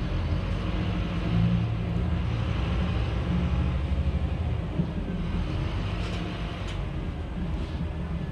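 Scania K310UB city bus's diesel engine running under way, a steady low drone with faint road noise and a few light clicks about six seconds in.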